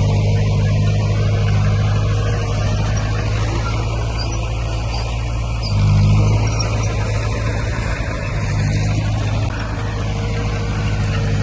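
Heavy diesel engine of earthmoving equipment running steadily, its note swelling briefly about six seconds in.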